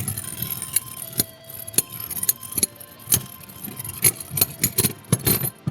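Beyblade spinning tops, a custom 3D-printed bearing Beyblade against Meteor Dragoon, clashing in the stadium: a run of sharp plastic clacks over a steady whirr of spinning. The hits come faster near the end.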